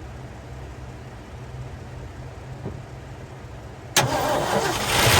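An old truck's engine being cranked by its starter, starting suddenly about four seconds in. The fuel line is run straight into a jug with no fuel pump, so no fuel is reaching the carburettor. A steady low hum comes before the cranking.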